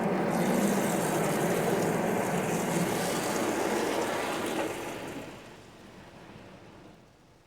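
Automatic car wash spraying the car: a steady rush of water and machinery noise with a low hum underneath, fading away over the last two seconds.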